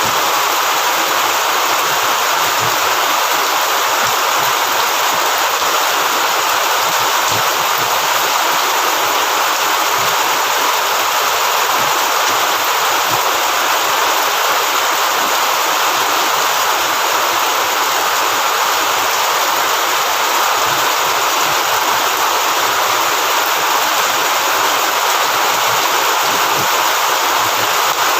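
Heavy rain falling steadily: a dense, unbroken hiss.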